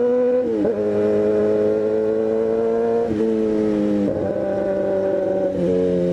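Motorcycle engine running under throttle while riding, its pitch climbing slowly, dipping briefly twice between throttle pulls, then falling away near the end as it slows.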